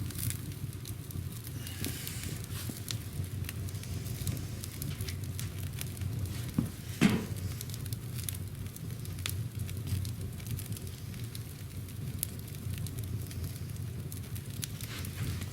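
Wood fire burning in a wood stove's firebox with waste oil dripping onto the logs: a steady low rumble of the fire under scattered crackles and sizzling. One louder thump about seven seconds in.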